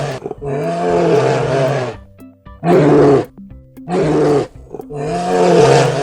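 Bear roaring: four long, pitched roars with short gaps between them.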